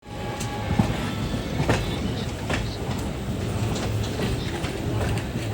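Train running along the track: a steady rumble with sharp clicks of the wheels passing over rail joints, roughly once a second.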